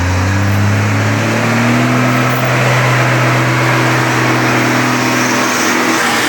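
A motor vehicle engine finishes revving up, then holds a steady pitch for about five seconds before falling away near the end, over a steady rushing noise.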